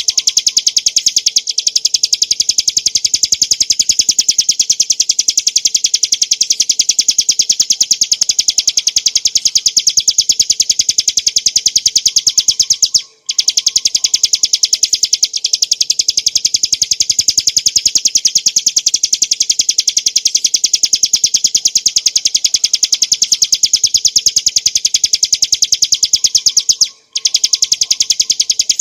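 Ciblek gunung, a small prinia, singing a loud, very rapid, unbroken chattering trill. The trill stops briefly about halfway through and again near the end.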